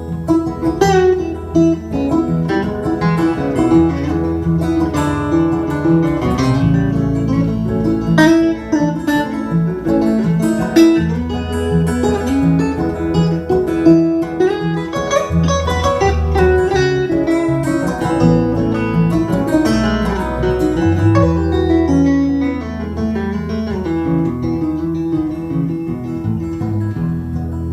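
Instrumental break in a live acoustic folk song: plucked string lead notes over strummed guitar and a sustained bass line, with no singing.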